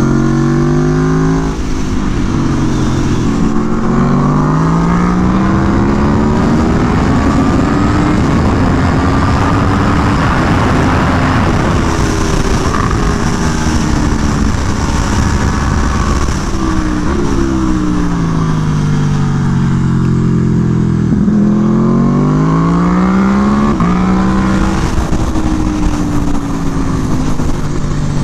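Aprilia Tuono V4 1100 Factory's V4 engine through an SC Project CR-T exhaust, heard from onboard at track speed. The revs climb several times and fall away in between, as it accelerates through the gears and slows for corners, over a steady rush of wind.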